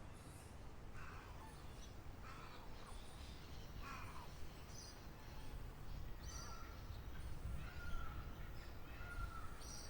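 Wild birds calling: three harsh, falling calls spaced a second or so apart in the first half, then high chirps and a long steady note, over a low background rumble.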